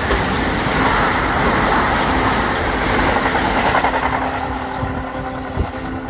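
Kintetsu electric train passing close by: a loud, steady rush of wheels on rail and running gear with a steady hum underneath, easing slightly near the end.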